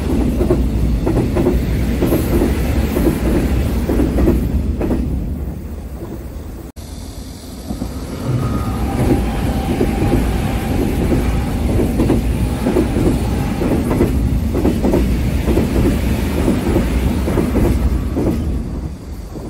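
Electric commuter trains passing close by on an elevated track: steady rolling noise with repeated clickety-clack of wheels over rail joints. The sound cuts out briefly about a third of the way in, then a second train passes with the same rhythmic clacking before fading near the end.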